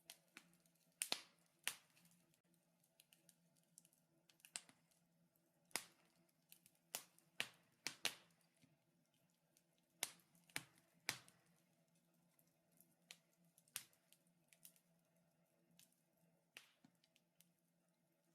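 Wood fire crackling in a fireplace: irregular sharp pops and snaps, scattered and sometimes in quick clusters, over a faint steady hum.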